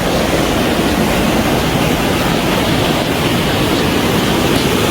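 Loud, steady rushing of a mountain river's fast water.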